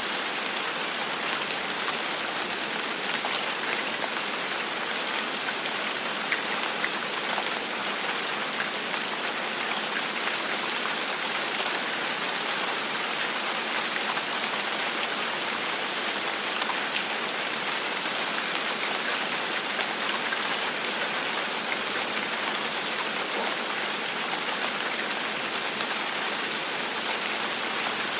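Steady gentle rain falling, a continuous even hiss with scattered individual drop ticks.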